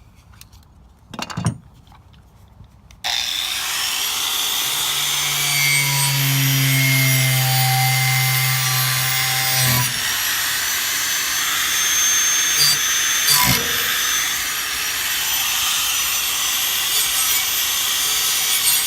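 A knock, then about three seconds in a power tool starts abruptly and runs steadily against the old sickle's metal, abrading it with a harsh, even hiss; a low hum sits under it for a few seconds.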